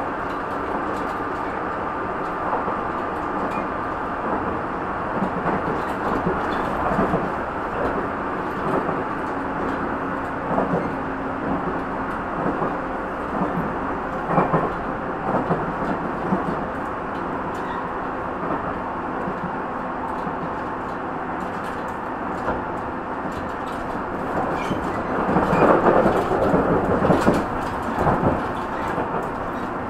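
Tobu 50050-series electric train running at speed, heard from inside the car: a steady rumble of wheels on rail with occasional knocks from rail joints. The knocks come thicker and louder about 25 seconds in.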